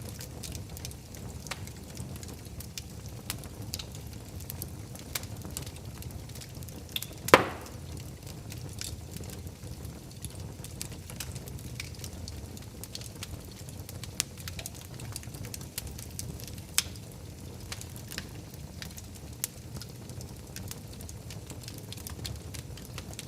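Wood fire burning in a fireplace: a steady low rumble of flames with scattered small crackles, and one loud pop about seven seconds in.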